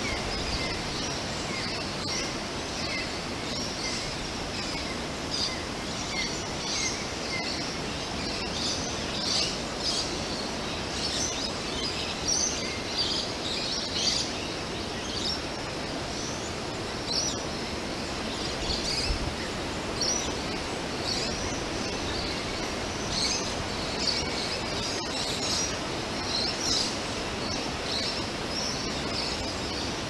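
Small birds chirping: a steady stream of short, high calls over a constant outdoor hiss.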